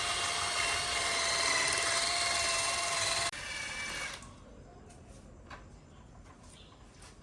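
A power tool running with a steady high whine, switched off about three seconds in and dying away within a second; after that only a few faint clicks and taps.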